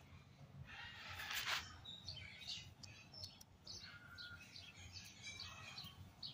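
Faint, scattered chirps and short calls of small garden birds, with a brief burst of hiss about a second and a half in.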